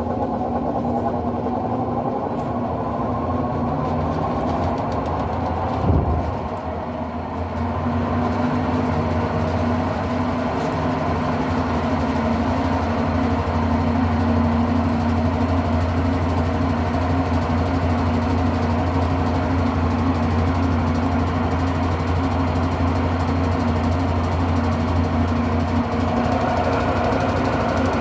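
Electrolux Turbo 8 kg (LM08) top-loading washing machine on its spin cycle: the motor and drum run with a steady hum and a whine that rises in the first few seconds as the drum speeds up. A single loud knock comes about six seconds in, after which the hum settles fuller and steady. The drum spins unbalanced because its suspension springs are broken.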